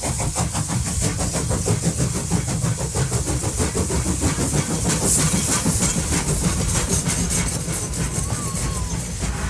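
A battery-powered toy train running along its track with a fast, steady rattle, and a hiss about five seconds in.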